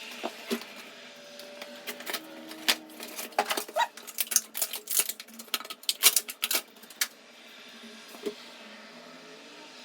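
Irregular clicks, crackles and rattles of a new toilet wax ring being unpacked from its plastic packaging by hand, busiest in the middle and stopping about seven seconds in.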